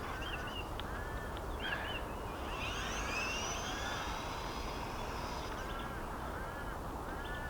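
The small brushed electric motor of a 1/18 RC short-course truck whines up in pitch as the truck accelerates, about two and a half seconds in, over a steady outdoor noise. A bird chirps repeatedly in short notes near the start and again near the end.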